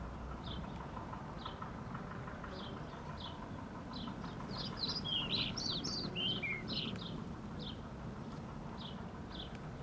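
Small birds chirping in short high calls about once a second, with a busier, louder flurry of chirps about halfway through, over a steady low background noise.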